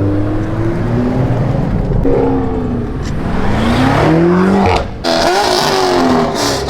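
A car engine revving up hard, its pitch climbing for a couple of seconds, breaking off briefly about five seconds in, then climbing again.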